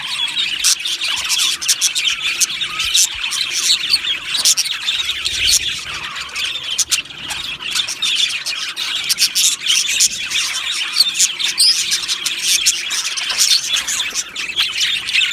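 A flock of budgerigars chattering together: many overlapping chirps and warbles in a dense, unbroken stream.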